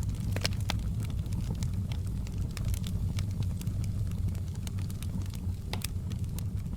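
Campfire crackling, with frequent sharp pops and snaps over a steady low rumble of burning. Two louder pops stand out, about half a second in and just before the six-second mark.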